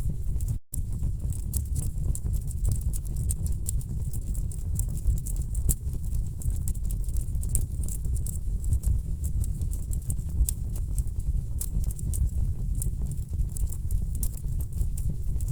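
Wood fire burning in a fireplace: a steady low rumble with dense, irregular crackles and pops from the logs. The sound drops out for an instant less than a second in.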